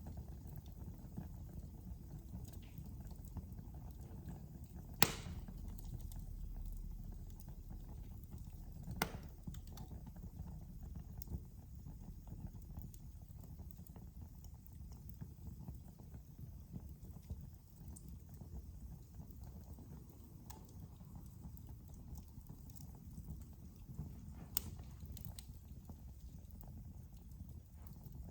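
Fire burning in a fireplace: a steady low rumble of flames with scattered faint crackles and three sharp pops, about five seconds in, nine seconds in and near the end.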